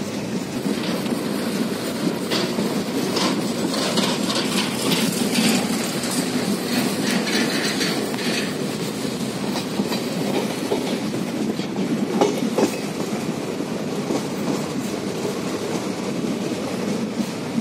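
Passenger train running along the track, heard from inside the coach at an open window or door: a steady rumble of wheels on rails, with a run of sharp clicks over the rail joints between about three and eight seconds in, and a few more later.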